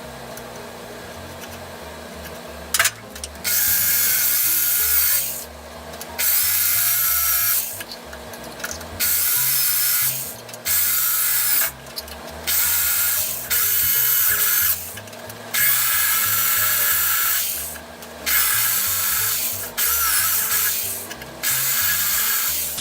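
Small power drill running in about ten short bursts of a second or two each, drilling out the remains of old rubber pins in a metallophone's wooden resonator box.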